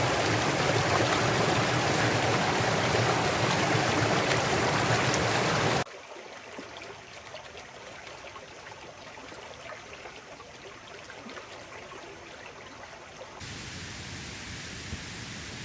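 Waterfall rushing loudly as a steady, dense roar of water, cut off abruptly about six seconds in. A much quieter, steady wash of water with faint scattered ticks follows and grows slightly louder near the end.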